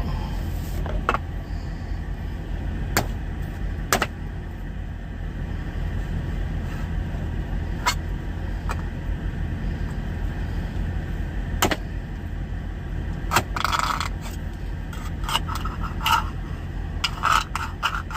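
A tin can being forced open without a can opener: scattered sharp metal clicks, then clusters of metal scraping from about two-thirds of the way in. All of it sits over a steady low rumble from the idling truck.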